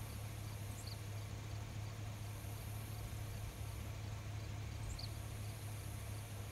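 Night insects trilling in high-pitched stretches of about a second and a half, going on and off, over a steady low hum, with two short faint chirps about a second in and near five seconds.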